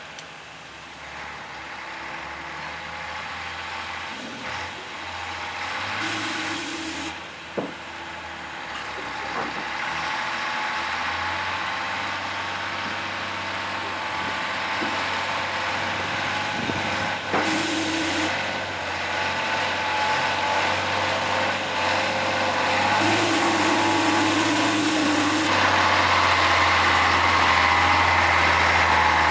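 Scania 112 M truck's six-cylinder diesel engine running steadily, with three short hisses of air from the air brake system. The engine grows louder near the end.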